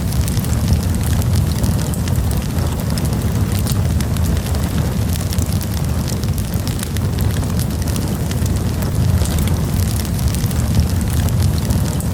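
Campfire burning: a steady low rush from the flames with frequent small crackles and pops throughout.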